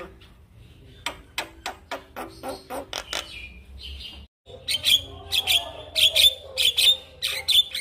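Male Javan myna (jalak kebo) singing in a series of sharp, clicking notes, about four a second. A brief gap falls near the middle, and a second, louder run of notes follows.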